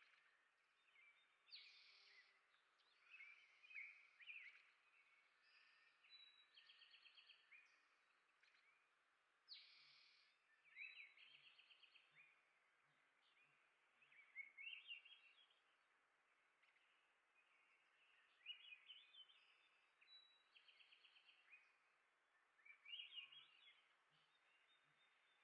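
Faint songbird calls: short chirps and whistled notes, broken every few seconds by quick rapid-fire trills, over a steady low hiss.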